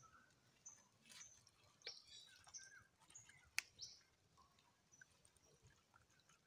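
Faint chirps of small birds, high and brief and repeated, with a few soft sharp clicks from handling, one at about three and a half seconds standing out.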